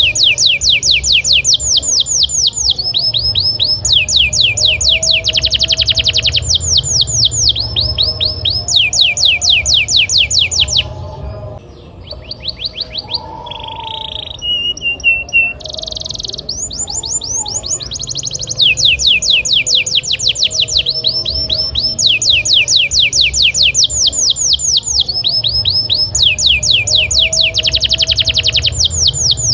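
Canary singing: long rolls of fast, evenly repeated downward-sweeping notes. They break off about a third of the way in for a few seconds of softer, scattered notes and a short whistle, then the rolls resume.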